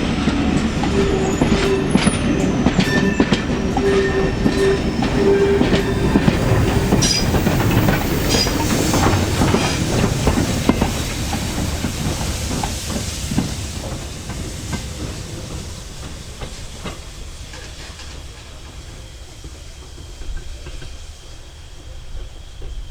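Train passing on jointed track, its wheels clicking over the rail joints, with a steady squeal over the first few seconds. The sound fades away over the second half as the train moves off.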